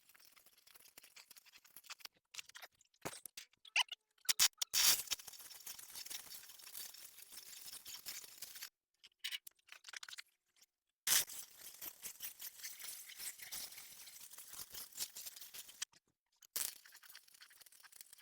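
Shielded metal arc (stick) welding from a battery-powered Fronius welder: the arc crackles and sputters in runs, going dead twice and striking up again.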